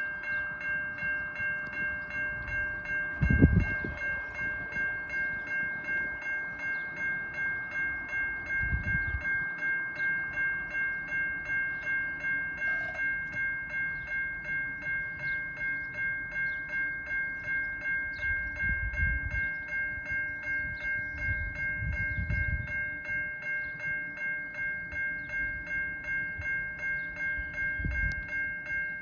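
Railroad grade-crossing warning bell starting up suddenly and ringing steadily at about two strikes a second, the signal that a train is approaching the crossing. A few short low thumps come through under it.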